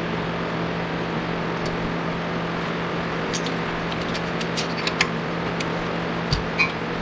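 Steady hum and noise of a workshop, with a few light, sharp clicks and taps from about three to five seconds in and twice more near the end.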